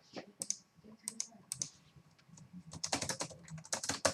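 Trading cards and plastic card holders being handled on a table: scattered light clicks and taps, then a denser run of crinkling and clicking near the end.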